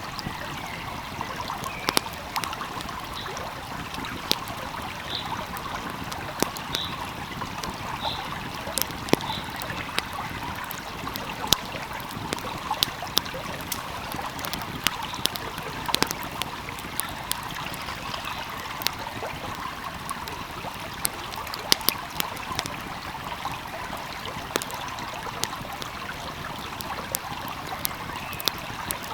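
Wood fire crackling, with frequent irregular sharp pops, over the steady rush of a flowing stream.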